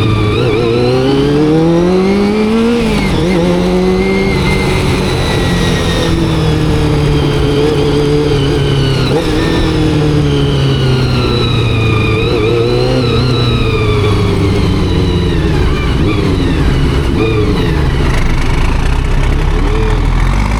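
Honda CBR400RR's carbureted inline-four engine pulling under way, its pitch rising for the first few seconds, dipping briefly near three seconds, then holding and easing up and down at moderate revs.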